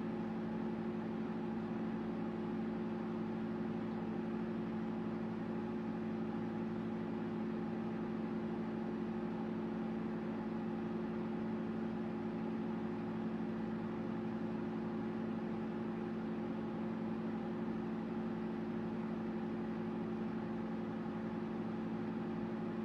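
Microwave oven running: a steady, even hum with no pops or crackles.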